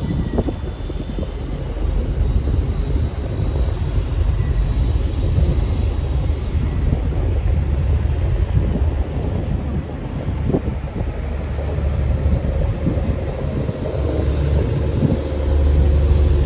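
Steady low drone of a river tourist boat's engine under way, mixed with wind and water noise.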